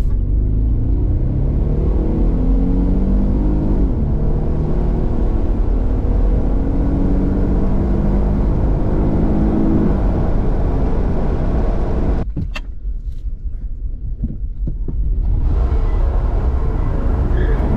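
Car engine accelerating several times, its pitch rising and falling as it revs through the gears, over a steady low rumble. About twelve seconds in the engine note drops away for a few seconds, with a couple of knocks, before the rumble picks up again.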